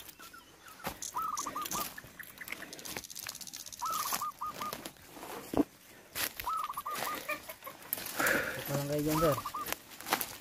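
A bird calling over and over, each call a quick run of four or five short notes, repeated about every two and a half seconds. Scattered scuffs and knocks are heard underneath.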